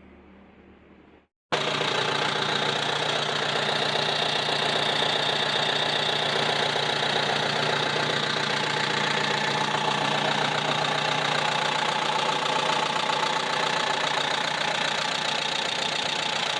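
Tractor engine running steadily at idle, cutting in abruptly about a second and a half in.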